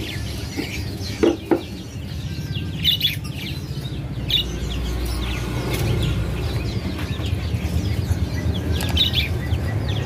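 Birds chirping in short, scattered high calls, with two louder, lower calls about a second in, over a steady low hum.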